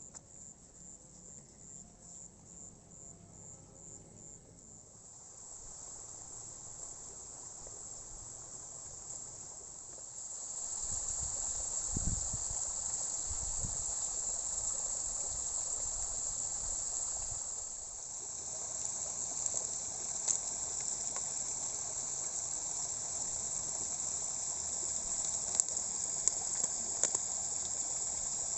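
Insects in the rice field keep up a high, steady chorus, pulsing at first and then unbroken. Underneath, a hiss of rain builds up about five seconds in and grows louder about ten seconds in, with a few low thumps and scattered sharp ticks.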